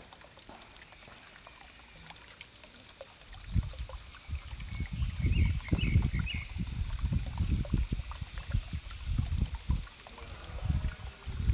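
Caged birds giving short, squeaky chirps, a few together about halfway through. Under them, a loud, irregular low rumbling with knocks starts about three and a half seconds in.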